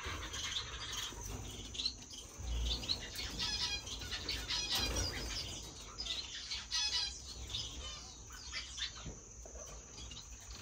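A flock of small finches in a bird room chirping in short, rapid calls, many birds at once, with wings fluttering.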